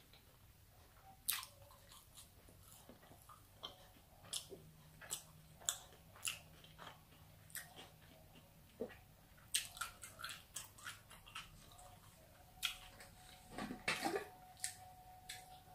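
Close-miked chewing with the mouth closed: soft, irregular wet mouth clicks and smacks. Near the end comes a short cluster of louder clicks as the top of a plastic drinks bottle is worked open.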